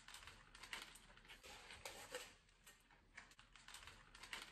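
Faint eating sounds: a bite into a double cheeseburger, then chewing, with soft irregular clicks and crinkles of its paper wrapper.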